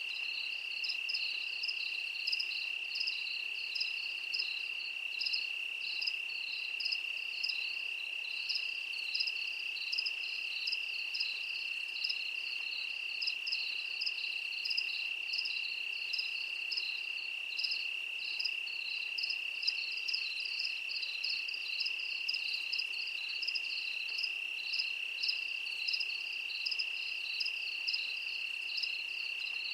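Steady insect chorus, typical of crickets: one unbroken high trill, with a quicker pulsing chirp layered just above it.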